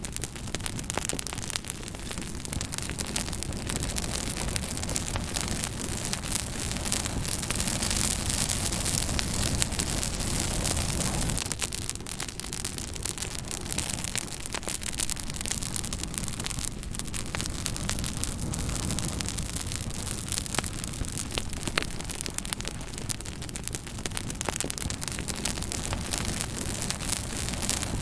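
Fire crackling: a steady hiss and low rumble with frequent sharp pops and snaps throughout.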